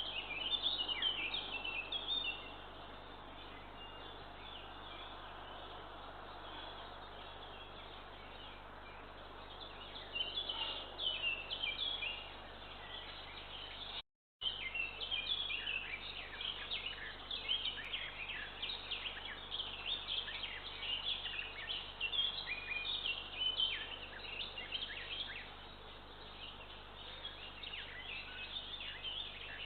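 Small songbirds chirping and singing around the nest, many short overlapping notes coming in bursts, busiest in the second half. The sound cuts out completely for a moment about halfway through.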